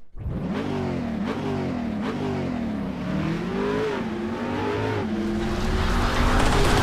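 Motorcycle engine being revved, its pitch rising and falling in repeated throttle blips, then holding steadier and getting louder near the end.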